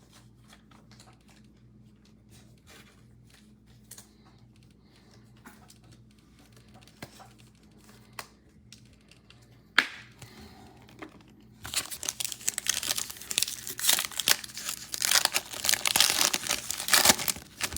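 A trading-card pack wrapper being torn open and crinkled, with loud dense crackling in the last six seconds. Faint small clicks of cards being handled come before it.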